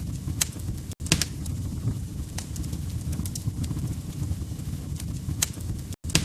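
Wood fire crackling in a fireplace: scattered sharp pops and snaps over a steady low rumble of burning logs. The sound cuts out for an instant about a second in and again near the end.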